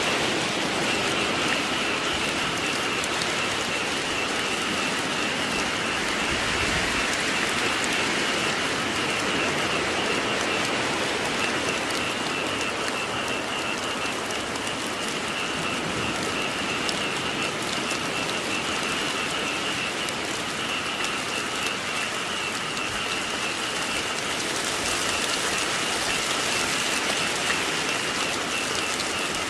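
Steady rainfall, with a chorus of frogs calling underneath in a continuous high, pulsing trill.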